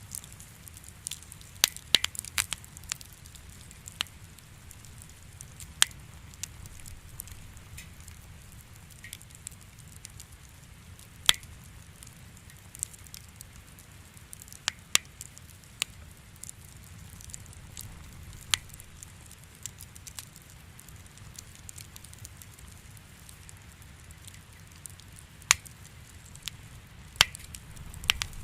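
Wood fire crackling in a fireplace: sharp, irregular pops and snaps a second or few apart over a low, steady rumble.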